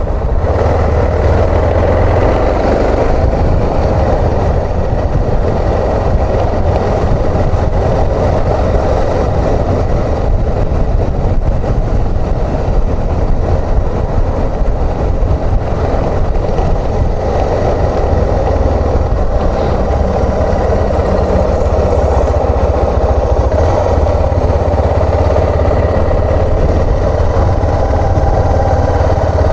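Suzuki XF650 Freewind's single-cylinder four-stroke engine running steadily under way.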